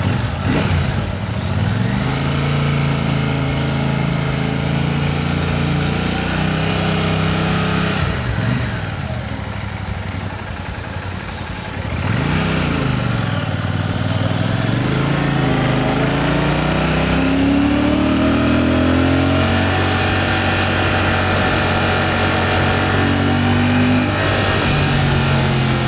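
Royal Enfield Classic 650's parallel-twin engine on the move, its pitch rising under throttle and falling back as it eases off and shifts. It quietens briefly around ten seconds in, then climbs steadily in pitch from about fourteen seconds in.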